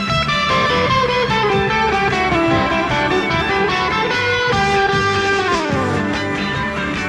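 Fender Telecaster electric guitar playing a surf instrumental melody over a backing track with bass and drums, the notes sliding downward in pitch twice.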